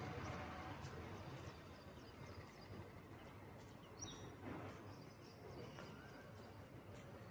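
Faint outdoor background hiss with a few short, high bird chirps, the clearest about four seconds in.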